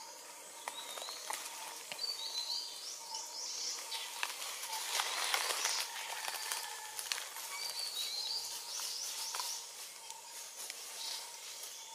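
Outdoor tree-canopy ambience: a bird repeats short runs of high, stepped chirps over a faint steady tone, with scattered clicks and a louder rustle of leaves and twigs about five seconds in.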